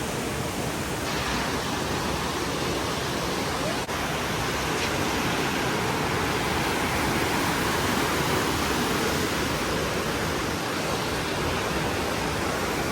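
Steady rush of a waterfall and fast-flowing creek water.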